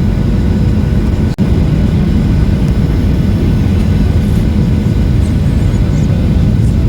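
Steady low rumble of a Boeing 737-800's CFM56 engines and airflow, heard from inside the passenger cabin, with a sudden brief drop-out about a second and a half in.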